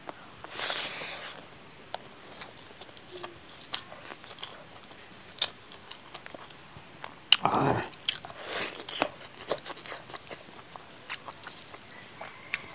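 Close-miked wet chewing and lip-smacking of a handful of rice and chicken curry, many small clicks with one louder, longer mouth noise about seven seconds in.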